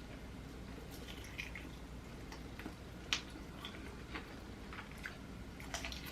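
Faint mouth sounds of a person eating: scattered wet clicks and smacks while chewing food.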